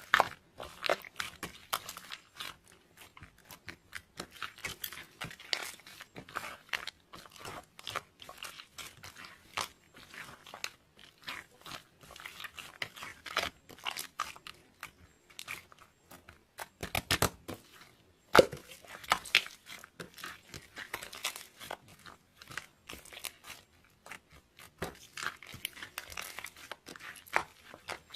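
Clear slime being squeezed, poked and stretched by hand, making quick irregular clicks, pops and crackles, with a louder run of pops about two-thirds of the way through.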